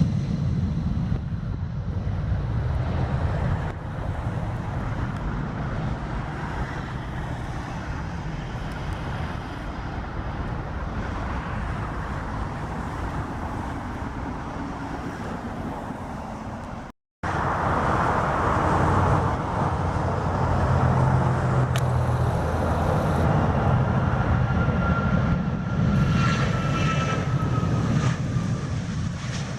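Jet aircraft engines running at an airport runway, a steady loud rumble with a brief total silence about halfway through. After the silence a second aircraft is louder, and near the end a high engine whine slowly falls in pitch.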